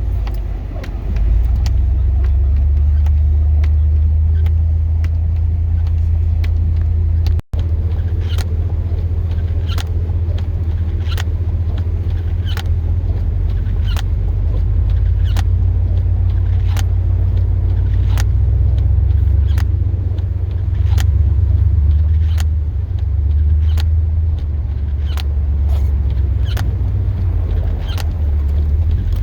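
Chevrolet Silverado plow truck driving, heard from inside the cab: a steady low engine and road rumble. From about seven seconds in, a regular clicking, a little faster than once a second, runs over it.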